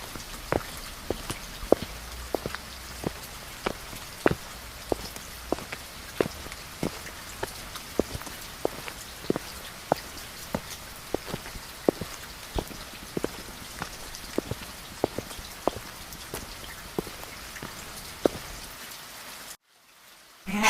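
Rain falling, a steady hiss with single drops ticking onto a hard surface about two or three times a second; it cuts off suddenly near the end.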